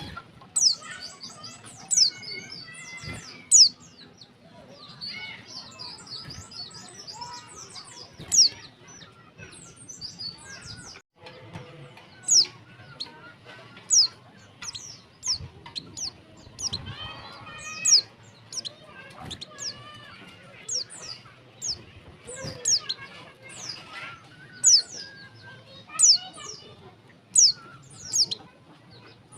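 Female white-eye (pleci) calling: repeated short, sharp, high chirps that drop in pitch, coming in quick clusters every second or two, over softer twittering. It is a call used to lure male white-eyes into singing.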